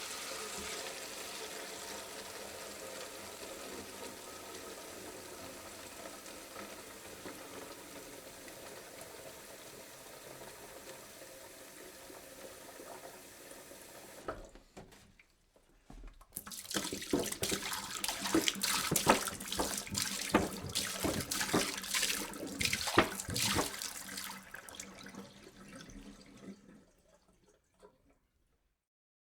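Water pouring into a jug: a steady stream that slowly grows quieter and stops about halfway through. After a short pause comes a second, louder pour with many sharp splashes, which trails off a couple of seconds before the end.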